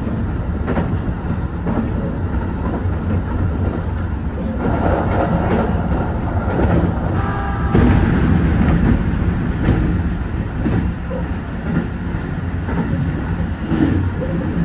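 HB-E210 hybrid diesel railcar running along the line: a steady low hum with wheels clicking over rail joints about once a second, and louder rolling noise around the middle.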